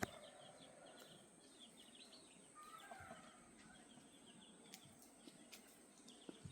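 Faint outdoor ambience with birds chirping in quick runs of short high chirps, and a soft brief call about two and a half seconds in. A short click right at the start.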